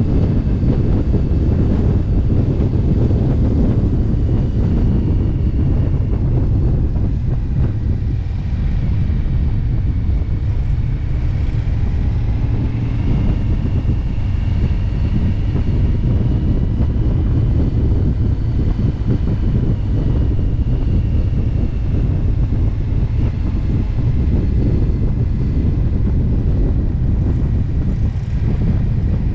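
Motorcycle cruising steadily on the road: a constant low engine and road drone, heavily overlaid by wind buffeting on the microphone.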